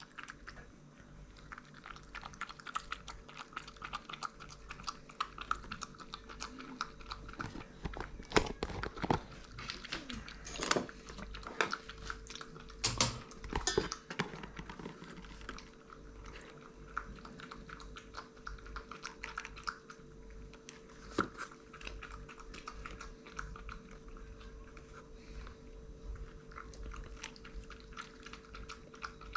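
A pet lapping milk from a dish: a quick, continuous run of small wet mouth clicks, with a few louder knocks between about 8 and 14 seconds in.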